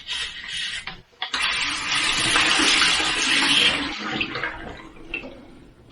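Water running from a sink tap, rinsing a dirty carburetor. The water starts about a second in and tapers off toward the end.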